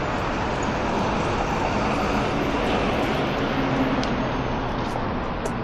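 Busy city street traffic: a steady noise of passing vehicles and their engines.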